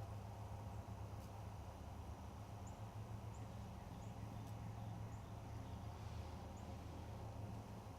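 Faint outdoor ambience: a steady low hum, with a few short, high bird chirps every second or so.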